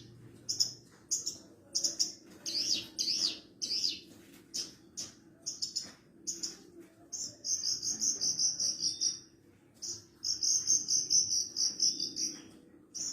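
Horsfield's bushlark (branjangan, parva race) singing: a run of short, sharp high chirps and slurred whistled notes, then rapid, buzzy, insect-like trills about 7 seconds in and again about 10 seconds in.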